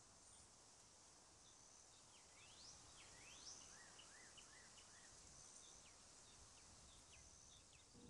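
Near silence: faint outdoor ambience with scattered small bird chirps and a few quick rising whistles, clustered around the middle.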